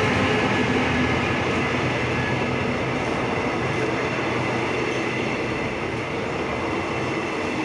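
Passenger coaches of a diesel-hauled express train rolling past along the platform, a steady rumble and rattle of wheels on rail that fades slightly toward the end.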